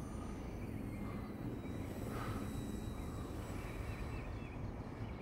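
Thin, steady high whine of the E-flite Eratix's electric motor and propeller flying at a distance, fading out about four seconds in, over a low rumble. Faint bird chirps near the end.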